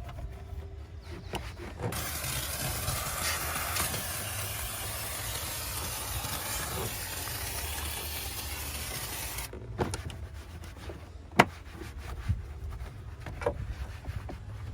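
Steam cleaner wand jetting steam in a steady hiss for about seven seconds, then cut off suddenly, followed by a few sharp clicks and knocks, one of them loud.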